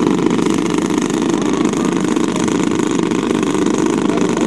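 Engines of a giant-scale radio-controlled B-29 bomber model running steadily as it gets under way for takeoff.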